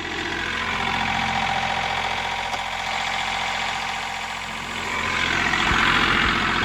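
John Deere 3038E compact tractor's three-cylinder diesel engine running steadily, growing louder for a second or two near the end.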